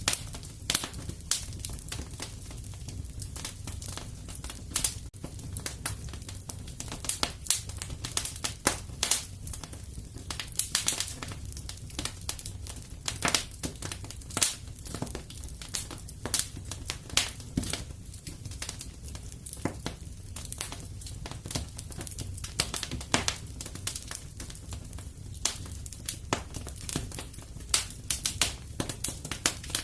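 Wood fire crackling in a fireplace: a steady stream of irregular snaps and pops over a low, even rumble.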